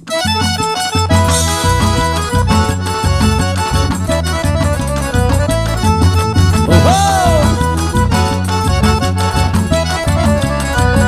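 Instrumental introduction of a forró pé de serra song: an accordion plays the melody over a steady bass-drum beat and fast high ticks of percussion.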